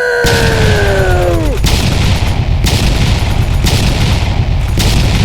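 A drawn-out whoop that falls in pitch over the first second and a half, over a loud, dense barrage of fireworks crackling and booming without pause.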